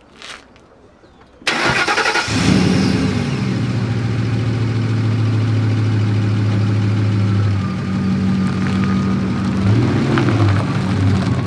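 Ford F-150 pickup's engine cranked by the starter, catching after under a second and settling into a steady idle; near the end the engine note rises and falls briefly.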